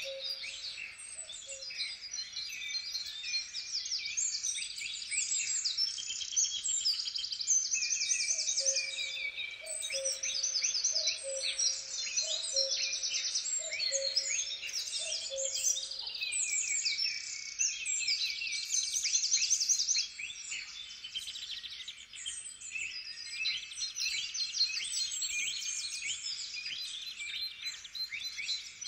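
Many songbirds singing at once, a dense chorus of overlapping chirps and trills. For a stretch in the first half, a lower two-note call repeats about once a second beneath them.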